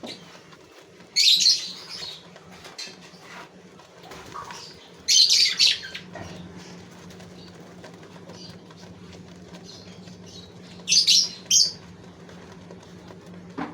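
Gouldian finches fluttering their wings in three short bursts, about a second in, about five seconds in and near eleven seconds, over a steady low hum.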